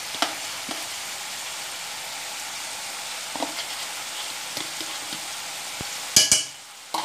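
Chicken, onion and ginger-garlic paste sizzling steadily in oil in a large aluminium pan, with a few light clinks of a steel spoon against the metal. A louder metallic clatter comes about six seconds in, and then the sizzle briefly drops away.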